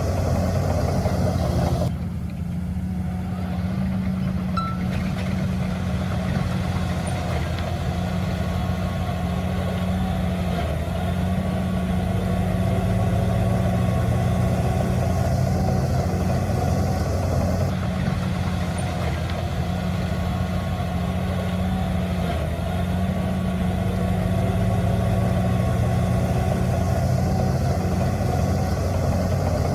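Diesel engine of heavy earthmoving machinery running steadily, its pitch rising and dipping slightly now and then.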